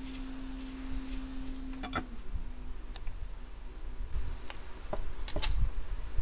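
A hot-air blower hums steadily, softening the adhesive of an iPhone XS Max screen. The hum stops about two seconds in, and several sharp clicks and taps follow, louder toward the end.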